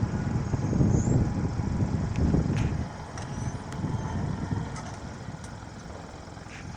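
Low vehicle rumble that eases off about three seconds in, with a few faint clicks.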